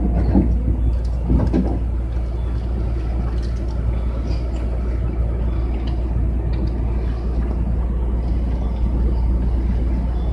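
Tobu 60000 series electric train running, heard from inside the car: a steady rumble of wheels and running gear on the rails.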